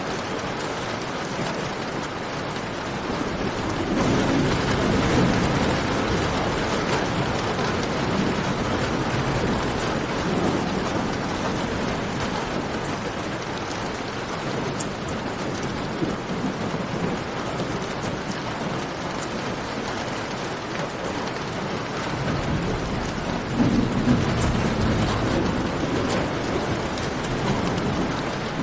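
Steady rain falling in a cave, with the sharp scattered crackle of a campfire. A deep rumble swells up twice, about four seconds in and again near the end.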